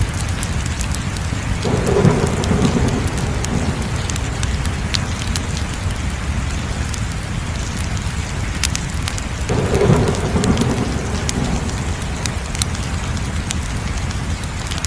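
Crackling wood fire: a steady low rush of flames with frequent sharp pops and snaps, swelling louder twice, about two seconds in and again about ten seconds in.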